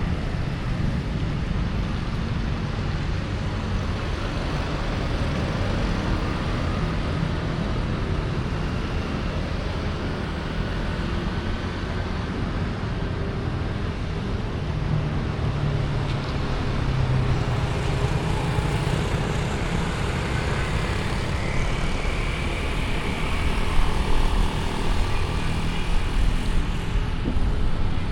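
Street traffic heard from a bicycle: a steady rumble of motor vehicles and road noise, with an engine hum standing out about halfway through.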